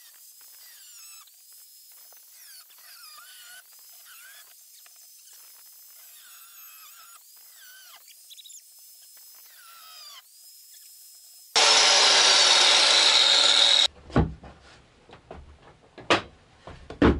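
A power tool meant for steel cutting into a wood panel: a loud, even, two-second burst about two-thirds through, followed by a few sharp knocks. Before it, only faint high squealing tones.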